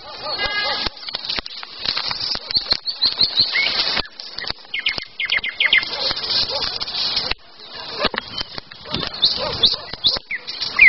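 Songbirds singing in spring woodland: many short chirps and quick trills from several birds, over a busy run of clicks and crackles.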